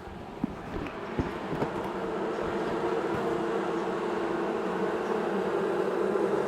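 Honeybees buzzing around an open hive, a steady hum that grows louder over the first few seconds. A few light knocks sound in the first two seconds.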